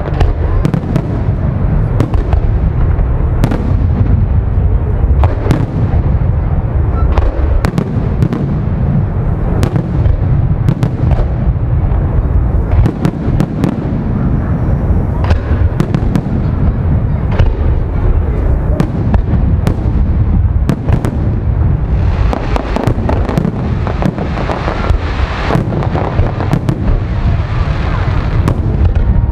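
Aerial firework shells bursting in a rapid, unbroken barrage: many sharp bangs, irregularly spaced, over a constant low rumble. The barrage grows denser about 22 seconds in.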